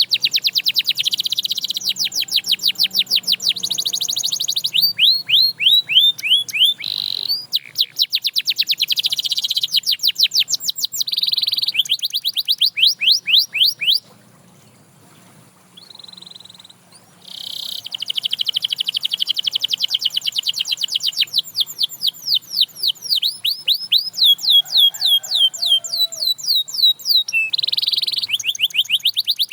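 Domestic canary singing: fast trills of rapidly repeated, downward-sweeping high notes, delivered in phrases that change speed and pitch, with a pause of about three seconds near the middle.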